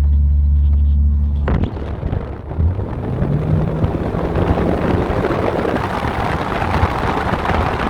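Exhaust of a BMW E36 328 with a MagnaFlow muffler, its straight-six droning steadily; about a second and a half in, heavy wind noise on the microphone suddenly takes over and builds, largely drowning out the engine.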